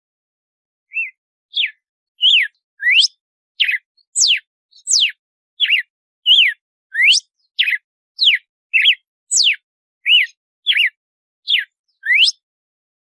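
Red-cowled cardinal (galo-de-campina) singing its 'açoite' song: an even run of short, clear whistled notes, some sweeping up and some sweeping down, about one and a half a second, starting about a second in.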